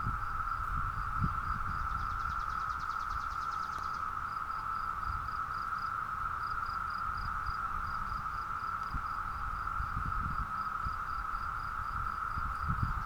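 Brood X periodical cicadas chorusing in the trees: one steady, unbroken drone. A faint, high pulsing call repeats about four times a second over it.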